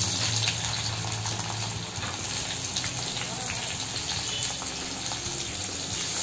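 Sliced shallots frying in hot oil and ghee, a steady sizzle, stirred with a wooden spatula.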